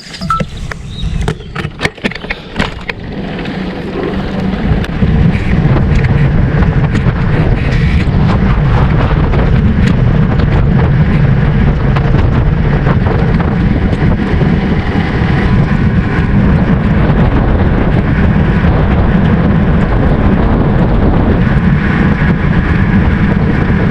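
Wind buffeting the microphone: a loud, steady low rumble that builds over the first five or six seconds and then holds. It follows a few sharp clicks and knocks at the start.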